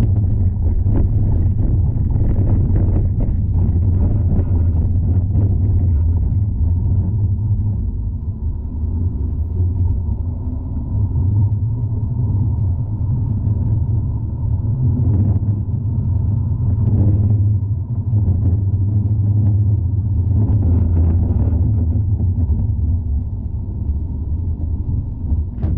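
Tram running along the rails, heard from inside the car: a steady low rumbling drone with a few brief knocks and rattles mid-way.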